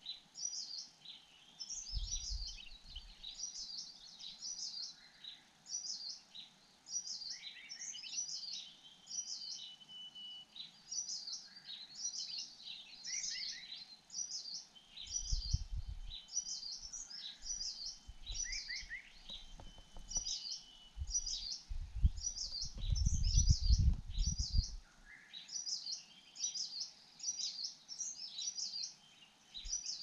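Wild birds calling: short, high chirps repeated about twice a second, with a few lower notes between them. Low rumbles on the microphone come in about 2 s in, around the middle, and most loudly a little past two-thirds of the way through.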